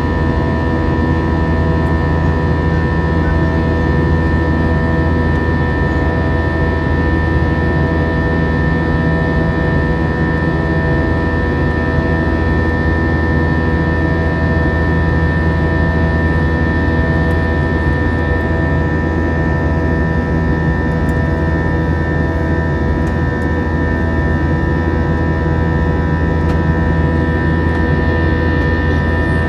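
Airbus A321 jet engines and airflow heard from inside the passenger cabin in flight: a steady drone with several steady whining tones over it.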